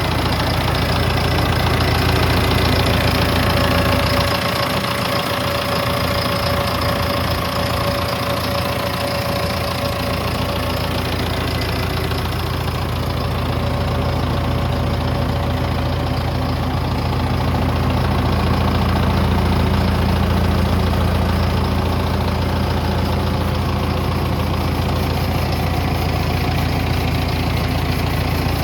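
A John Deere 7130 tractor's six-cylinder diesel engine running steadily at idle. Its pitch and loudness shift slightly about four seconds in and again near the twenty-second mark.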